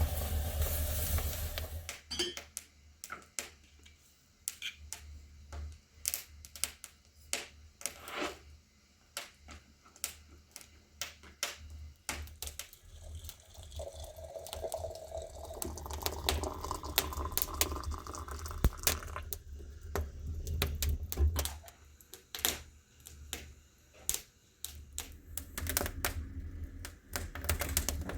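Wood fire crackling with sharp, irregular clicks and pops. About fourteen seconds in, water is poured into a vessel for a few seconds, its pitch rising as it fills.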